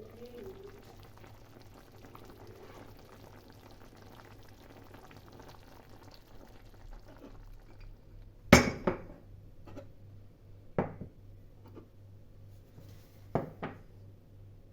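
Kitchen work sounds: a faint pouring noise for the first several seconds, then a loud clink of dishes about eight and a half seconds in, followed by a few lighter knocks and clinks.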